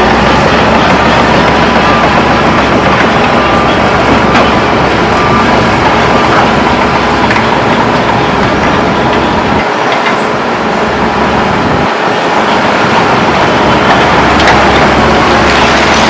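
Heavy diesel earthmoving machinery running steadily: a bulldozer and dump trucks working loose dirt fill. The low rumble dips briefly twice past the middle.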